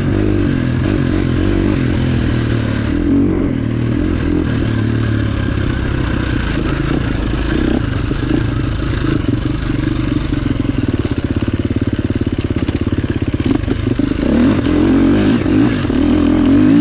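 Enduro dirt bike engine running steadily while being ridden, its revs rising and falling with the throttle and a little louder near the end.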